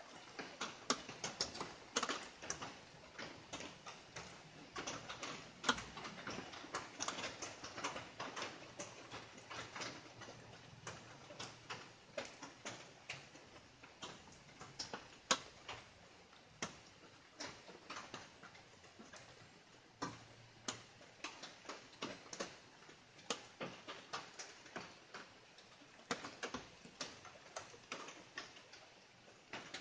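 Light rain pitter-patter: irregular drops tapping, several a second, over a faint hiss.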